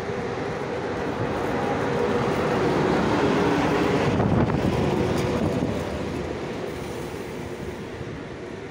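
ZSSK class 350 electric locomotive hauling a passenger train past at close range, with a steady hum over the rush of wheels and running gear. The noise swells to its loudest midway as the locomotive goes by, then eases as the coaches roll past.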